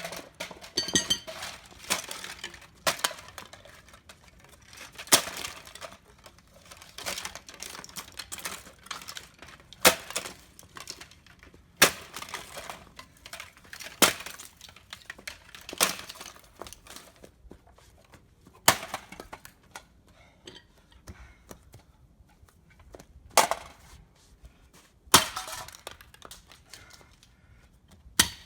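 A Honeywell space heater being struck hard again and again and breaking apart: about a dozen sharp cracking hits, mostly around two seconds apart with a longer pause in the latter part, each followed by clattering and clinking of broken pieces.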